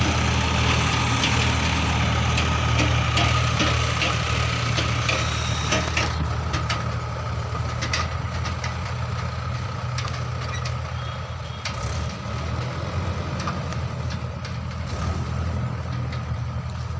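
Heavy diesel engine of a tractor or backhoe loader running steadily, with a thin steady whine above it. Scattered clanks and knocks begin about six seconds in.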